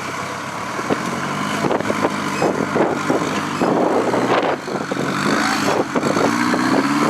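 Rock crawler buggy's engine running under load with short knocks throughout, revving up in pitch near the end.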